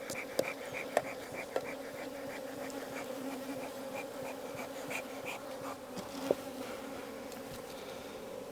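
Honey bees buzzing steadily around an open hive, a constant hum, with a few light clicks and knocks of wooden frames and hive tools being handled.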